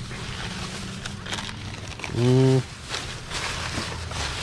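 Thin plastic bag rustling and crinkling as gloved hands dig through its contents. About halfway through there is one short, low, steady-pitched voice sound like a hummed "mm", which is the loudest thing heard.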